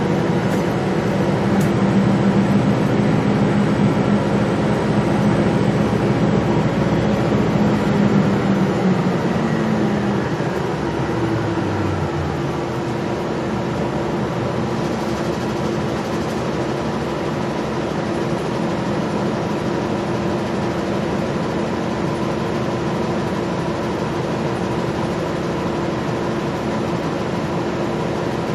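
Gillig Low Floor transit bus running under way, its engine and drivetrain droning with a steady whine. About ten seconds in the engine note falls in steps and the sound gets a little quieter as the bus slows, then a lower steady drone runs on.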